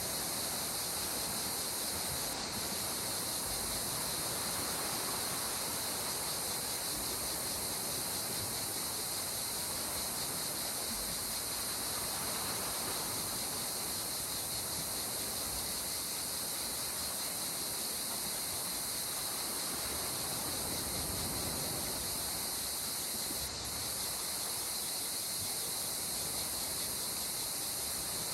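Calm sea water washing gently at the shore in slow, soft swells, under a steady high-pitched chorus of insects.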